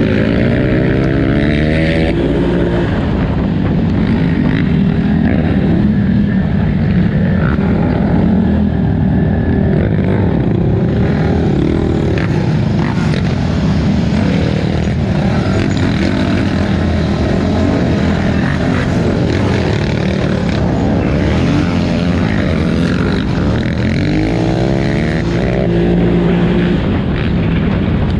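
A 2018 Polaris Scrambler 1000XP ATV's twin-cylinder engine running hard at race pace. The revs climb and drop at the start and again near the end, and there are short knocks throughout.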